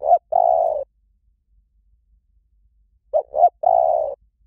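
A bird's call sounding twice, about three seconds apart: each phrase is two short notes followed by one longer, slightly wavering note, all at the same mid pitch and alike in shape.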